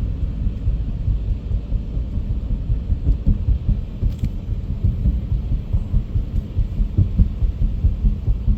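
Car cabin road noise while driving: a loud, low rumble with an uneven pulsing.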